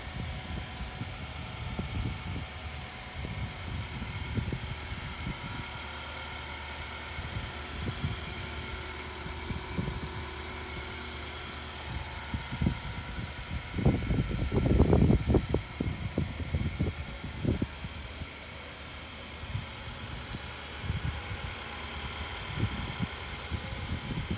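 2011 Infiniti QX56's 5.6-litre V8 idling steadily. Over it, wind buffets the microphone in low rumbling gusts, loudest for a few seconds a little past the middle.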